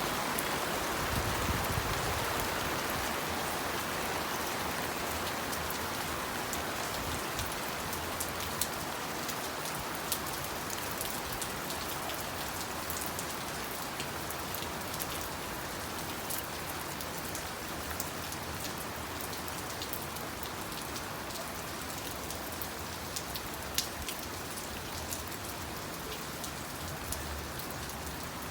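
Steady rain falling on a surface, an even hiss with many scattered sharp drop ticks.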